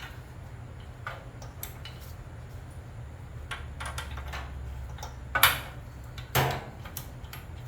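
Metal hand tools clinking and knocking against the generator's metal parts as it is worked on, with scattered small clicks and two louder clanks about two thirds of the way through, over a steady low hum.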